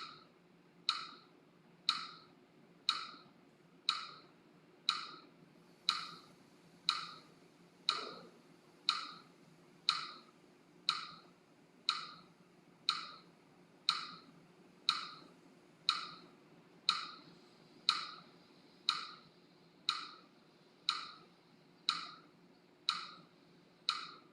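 Metronome-like ticking, one sharp click about every second in a steady rhythm, pacing the breath count.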